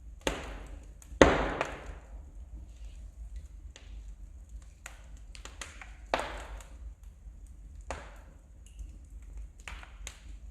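Firewood burning in a fireplace, crackling with irregular sharp pops and snaps, the loudest about a second in and others around six, eight and ten seconds in, over a low steady rumble.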